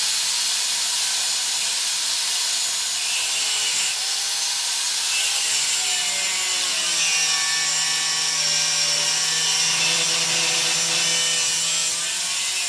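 Angle grinder with a cutting disc running continuously through steel: a steady, harsh hiss whose pitch sags and recovers in the second half as the disc is loaded in the cut.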